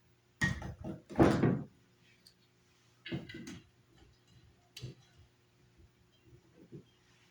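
Several short knocks and clatters of things being handled, as when a drink on the rocks is made: glass, bottle and ice. The loudest is about a second in, with smaller knocks about three and five seconds in.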